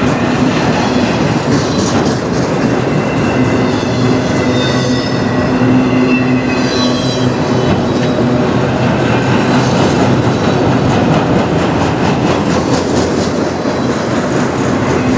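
Autorack freight cars rolling past, a steady loud rumble and rattle of car bodies with wheels clicking over rail joints and a faint high wheel squeal.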